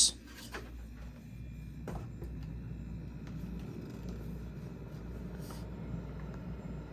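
Carrier 8,400 BTU window air conditioner running with a steady low hum, its fan going while the compressor has not yet started.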